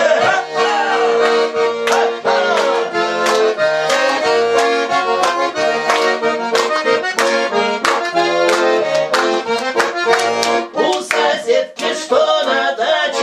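Accordion playing an instrumental break in a song: sustained notes and chords over a steady beat.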